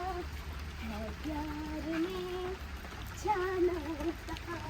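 A high voice singing a melody in two phrases, with held, gliding notes, over a steady low rumble.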